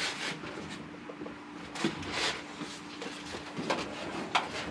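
A handful of sharp knocks and clicks, like something being handled, over a steady low hum.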